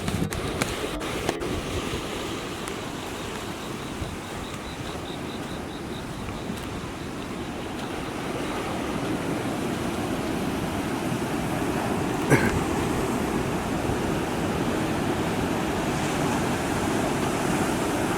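Rough surf from an approaching typhoon crashing and washing steadily on the shore, with wind buffeting the microphone; it swells a little louder about halfway through. A few small clicks at the start and one sharp click about twelve seconds in.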